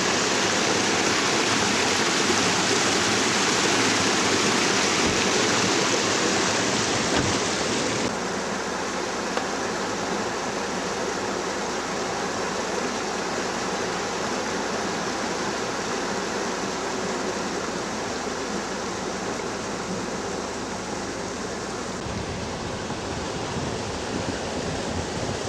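Steady rush of water from a rain-swollen ravine stream. About a third of the way in it abruptly becomes a little quieter and less hissy, and it shifts slightly again near the end.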